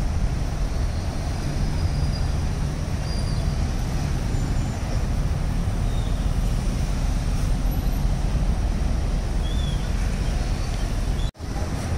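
Lamborghini Urus twin-turbo V8 running low and steady as the SUV pulls away slowly, over the hum of city traffic. The sound cuts out for a moment near the end.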